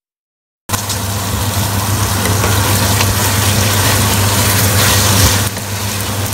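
Bitter melon, tomato and onion sizzling in a stainless steel pot while being stirred with a wooden spatula, under a steady, loud low hum. The sound cuts in suddenly under a second in.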